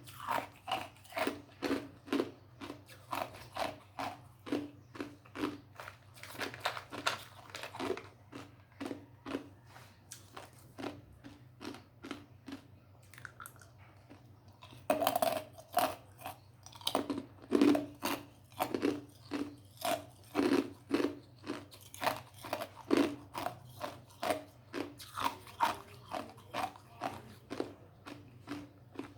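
Ice being bitten and chewed: a steady run of crunches, about two a second, that eases off for a few seconds near the middle and then comes back louder. A faint steady low hum lies underneath.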